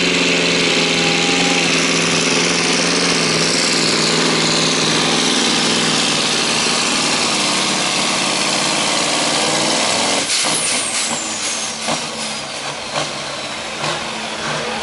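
Scania pulling truck's diesel engine running hard and steady under the strain of the pull. About ten seconds in the power drops off sharply, and several sharp knocks follow while the engine keeps running lower.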